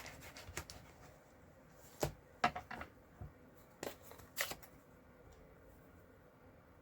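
Paper and craft supplies handled on a desk: a scattering of light taps, clicks and paper rustles over the first four and a half seconds, then only quiet room background.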